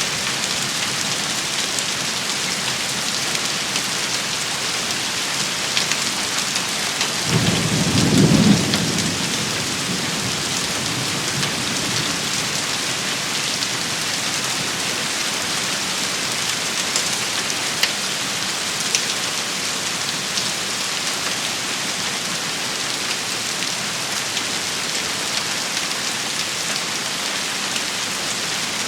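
Steady rain shower hissing on hard surfaces, with a low rumble of thunder lasting about two seconds, starting about seven seconds in.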